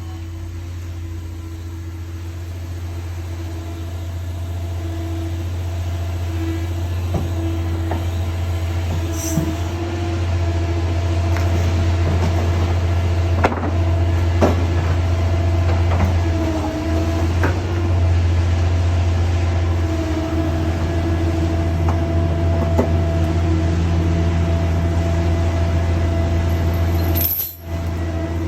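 Heavy demolition excavator's diesel engine and hydraulics running steadily with a constant low hum, and a few sharp metallic knocks as it handles a heavy concrete crusher attachment. The sound drops out briefly near the end.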